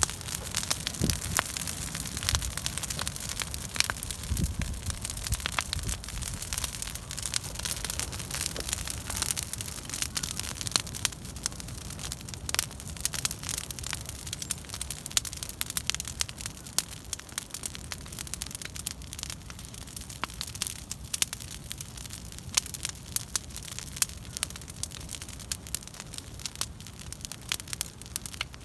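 Bonfire of pruned fruit-tree branches crackling, with frequent sharp pops and snaps over a steady hiss of burning.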